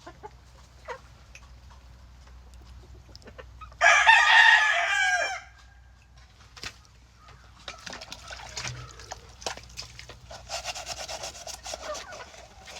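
A rooster crows once, loudly, for about a second and a half, about four seconds in. From about halfway through, a rough repeated scraping sound follows.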